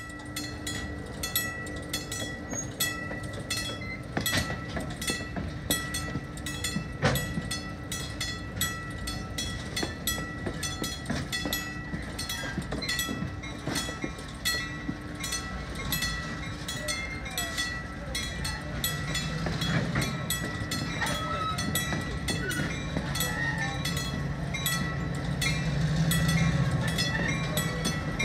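Freight train rolling past, its wheels clicking in a quick, regular rhythm over rail joints, with a steady thin squeal above. A deeper rumble builds over the last third.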